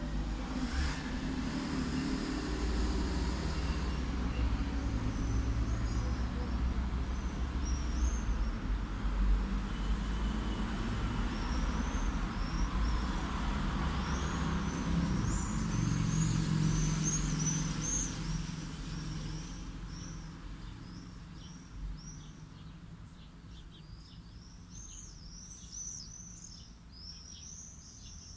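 Light road traffic rumbling past, swelling in the middle and fading away after about 20 seconds, with small birds chirping throughout; the birdsong grows busier near the end.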